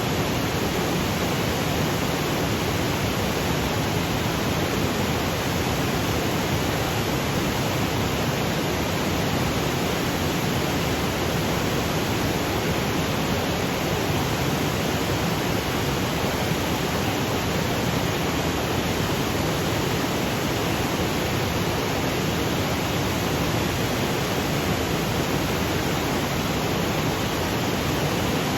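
Waterfall cascading over granite boulders: a steady, even rush of falling water with no breaks or changes.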